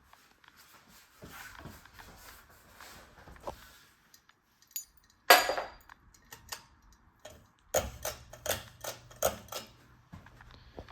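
Ceiling fan pull-chain switch clicking and its metal chain clinking, with one loud click about five seconds in and a quick run of clicks near the end, as the fan is switched on to low speed. A faint steady low motor hum starts with the later clicks.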